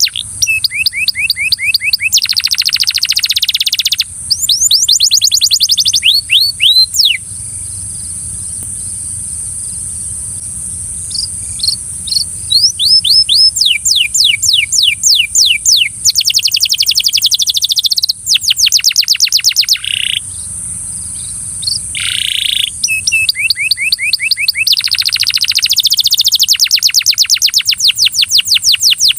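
Belgian canary singing: phrases of fast trills, rapid runs of repeated high notes, broken by short pauses and a longer lull from about 7 to 11 seconds in. A steady high hiss runs underneath.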